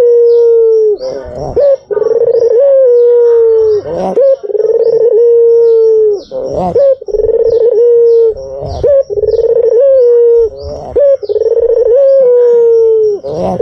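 White Barbary dove (puter putih) cooing: a run of long, level coos, each one to two seconds, with short breaks between them. Faint short high chirps repeat throughout.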